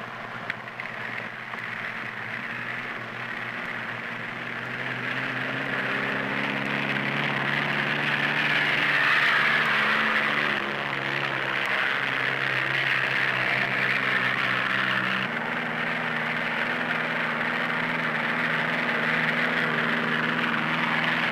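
Propeller engine of an early tubular-fuselage monoplane droning steadily, heard through the hiss of an old film soundtrack; its pitch shifts abruptly twice.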